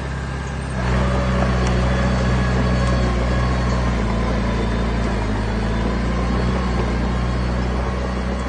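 Diesel engine of a heavy construction machine running steadily, rising in level about a second in, then holding.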